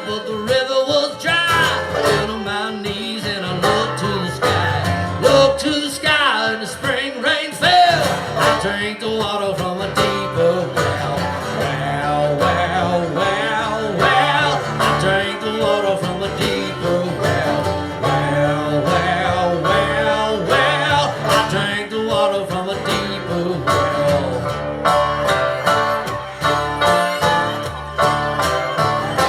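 Live country-bluegrass band playing an instrumental break, with acoustic guitar and banjo picking.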